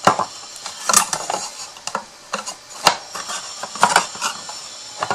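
Light clicks and taps, roughly one a second, with soft rustling, as cut pieces of a small craft toolbox are handled and fitted together.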